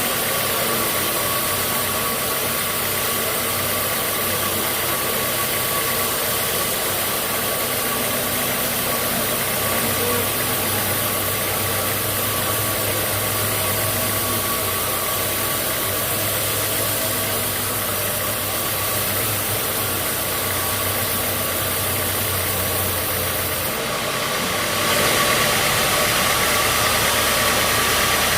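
Sawmill machinery running steadily: an engine drone under a constant whine. About 25 seconds in it becomes louder and brighter.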